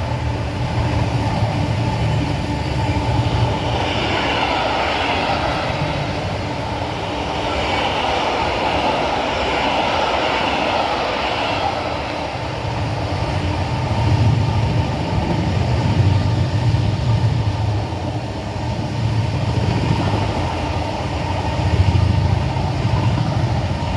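A Class 66 diesel locomotive hauling an intermodal container freight train through the station at speed: the locomotive's engine, then the long run of wagons rumbling over the rails with a repeating low beat.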